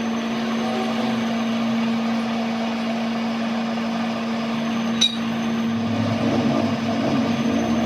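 A steady mechanical hum at one pitch, with a single sharp metallic knock about five seconds in.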